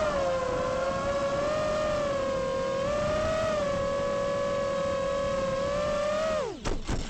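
Five-inch FPV quadcopter's brushless motors and propellers whining at a high, slightly wavering pitch as the throttle moves, then dropping steeply in pitch near the end as the motors spool down and stop.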